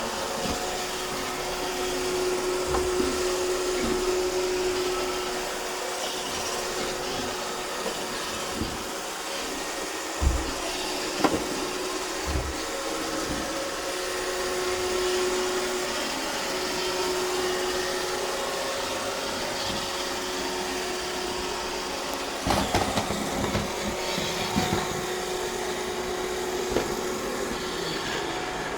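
iRobot Roomba 630 robot vacuum running, a steady motor hum with a constant tone. A few sharp knocks come around the middle, and a cluster of them near the end.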